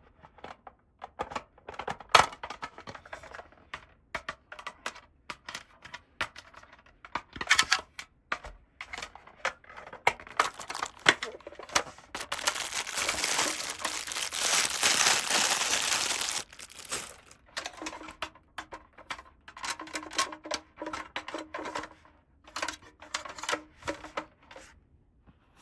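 Plastic packaging crinkling and small plastic toy pieces clicking and tapping as a toy house set is unpacked and handled. About halfway through comes a continuous tearing rustle lasting about four seconds, the loudest part.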